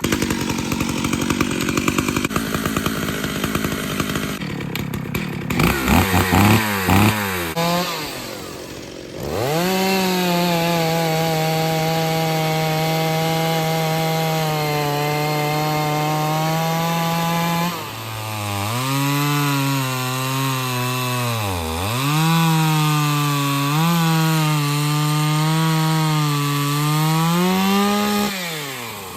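Two-stroke chainsaw running at high revs. It revs up and down, holds a steady high pitch for about eight seconds, then in its last ten seconds the pitch repeatedly sags and recovers, with one deep dip, as the chain bites into wood.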